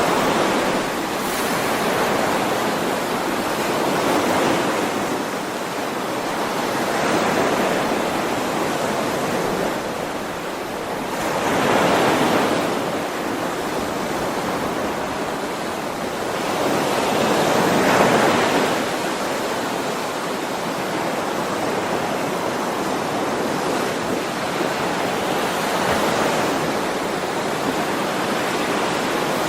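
Ocean waves washing onto a shore in a steady rush that swells and fades every few seconds, with the biggest surges about twelve and eighteen seconds in.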